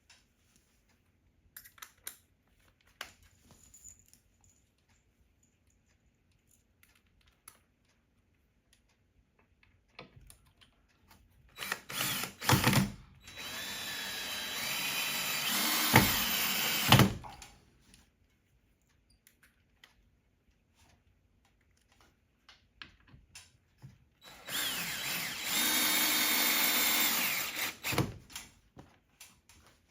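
Power drill running in two bursts of several seconds each, about twelve and twenty-four seconds in, its motor whine shifting in pitch as the trigger is worked, with a sharp knock near the end of the first burst. Light clicks and knocks of handling come between the bursts.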